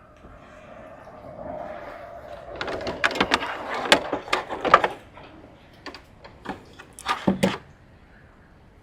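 Clicks, knocks and clatter of tools and parts being handled during a wiring repair, with a faint steady hum under the first half.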